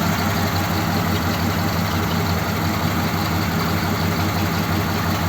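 1957 Ford Thunderbird's Y-block V8 idling steadily.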